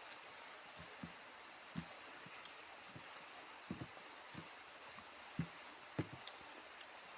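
Close-up mouth sounds of someone eating: soft, irregular chewing clicks and lip smacks, about a dozen in a few seconds.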